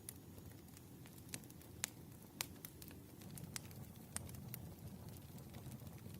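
Burning firewood crackling: irregular sharp pops and snaps over a low, steady rumble of the fire.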